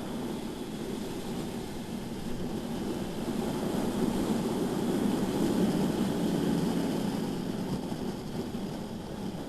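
Onboard sound of a BMW S1000RR inline-four sport bike lapping a track: a steady rush of wind on the microphone over the engine running underneath. It swells a little just after the middle.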